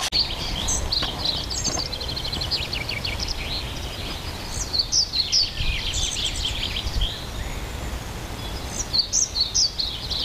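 Songbirds singing: overlapping trills and quick repeated chirps, over a steady low rumble.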